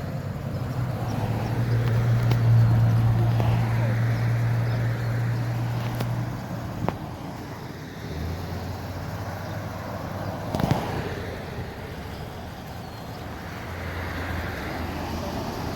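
Road traffic: a vehicle engine running with a steady low hum that drops away about six seconds in, then a quieter engine hum, with a short knock a little past two-thirds through.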